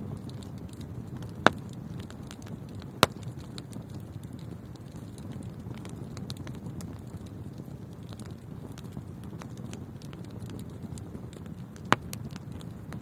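Wood fire burning in a fireplace with a steady low rumble and frequent small crackles. Three loud sharp pops stand out, two early on and one near the end.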